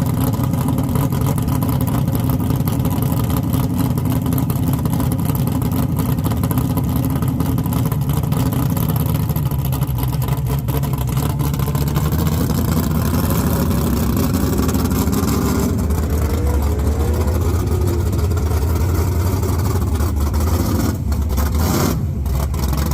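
Drag race car engines running at the track: a loud, steady low rumble that holds without a sharp full-throttle launch.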